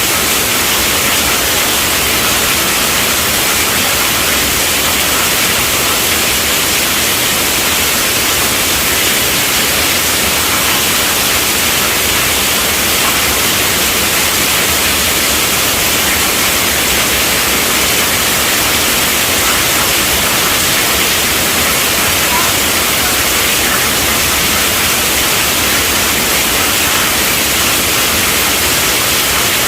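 Heavy rain drumming steadily on a tent roof, a dense, even hiss with no let-up.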